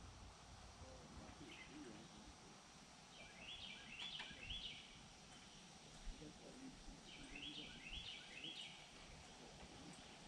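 Faint songbird singing, two short phrases of quick stepped high notes a few seconds apart, over near-silent background.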